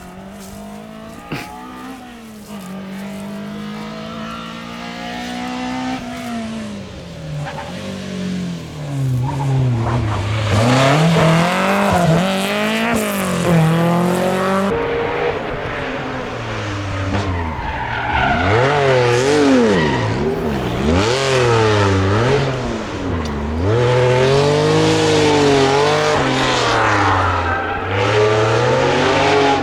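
Rally car engines run hard on a stage. The engine note climbs and drops again and again through gear changes and lifts off the throttle, and grows louder as the car comes closer. About halfway through it breaks off abruptly and another car picks up the same climbing and dropping note.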